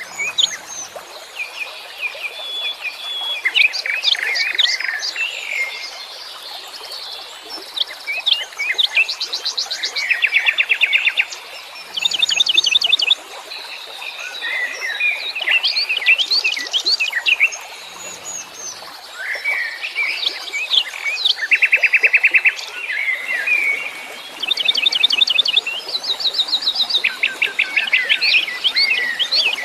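Several wild songbirds singing and calling at once: a dense mix of chirps and whistles, broken every few seconds by fast, evenly pulsed trills.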